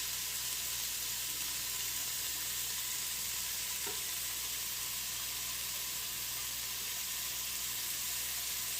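Chopped carrots, celery, onions and garlic sizzling steadily in chicken drippings in a pot on the stove, with a faint tick about four seconds in.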